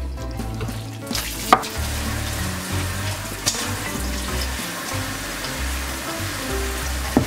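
A gloved hand tossing and mixing chives, sliced onion, carrot and chilies with frying flour in a bowl for Korean chive pancake (buchujeon) batter: a steady wet squishing and rustling, with a sharp click against the bowl about a second and a half in and another a couple of seconds later.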